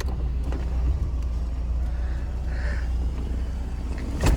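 Steady low rumble, with a few light clicks and a sharper knock near the end from handling the folding soft top of a Honda S2000.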